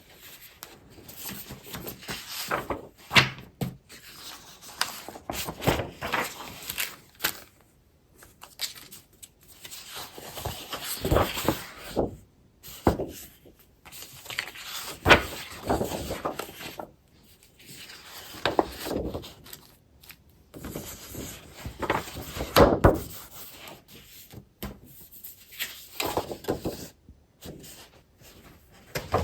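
Scrapbooking paper and packaging being handled and sorted: irregular rustling, crinkling and shuffling in bursts with short pauses, and a few sharp knocks as things are moved or set down.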